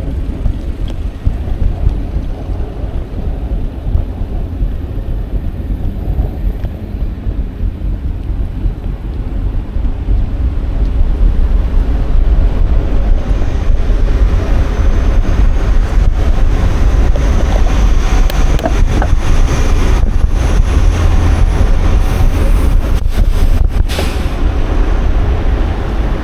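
Wind buffeting an action camera's microphone during a bicycle ride, a steady low rumble mixed with road noise. It grows louder about halfway through, with a few sharp knocks near the end.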